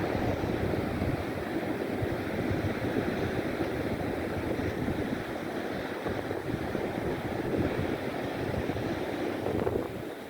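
Sea waves washing steadily, with wind buffeting the microphone in a constant low rumble.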